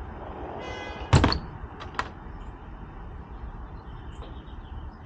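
A brief squeak, then one loud thud and two lighter clicks, over a steady low hum.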